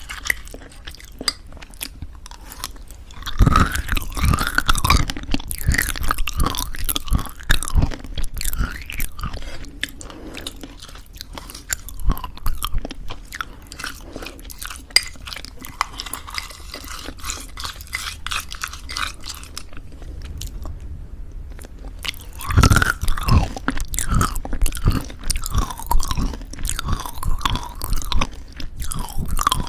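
Close-miked chewing of crunchy granola in thick yogurt: a steady crackling crunch, with louder bites of a fresh mouthful about three seconds in and again about 22 seconds in.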